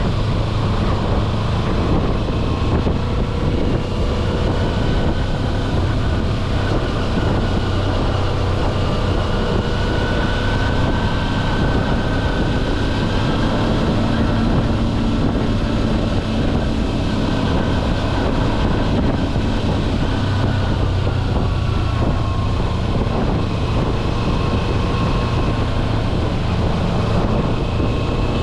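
Kawasaki Versys-X 250's parallel-twin engine running under way at a steady road speed, its pitch drifting gently up and down with the throttle.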